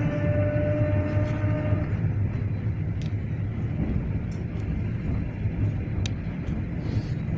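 Moving train heard from inside the carriage: a steady low running rumble, with a steady whine that fades out about two seconds in and two short sharp clicks later on.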